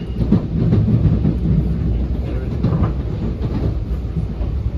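Running noise inside an NJ Transit Multilevel coach at speed: a steady low rumble of the wheels on the rails, with louder stretches of clatter about a second in and again near the middle.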